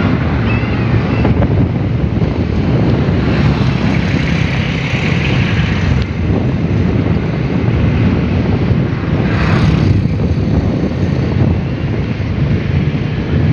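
A heavy engine running steadily, with wind noise on the microphone.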